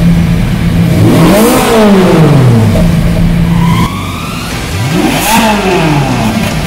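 Ferrari 458's naturally aspirated V8 blipped on the throttle while parked: the revs climb sharply and fall back twice, holding a steady lower note in between. The engine is being taken through its rev range after a catalytic-converter and fuel-system cleaning treatment.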